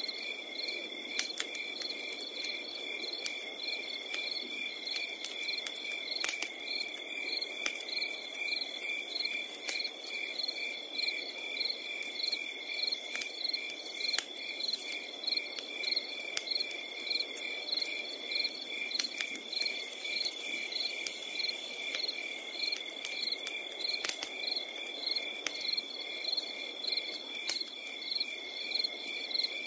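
Crickets chirping in a regular pulse of about two chirps a second over a continuous high trill. A campfire crackles under them with scattered sharp pops and a low hiss.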